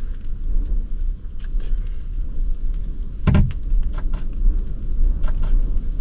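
Steady low rumble of storm wind buffeting the microphone, with a few faint clicks and one sharp knock about three seconds in.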